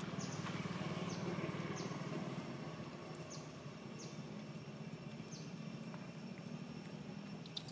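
Outdoor ambience: a steady low hum, with a small bird giving short, high, falling chirps every second or so.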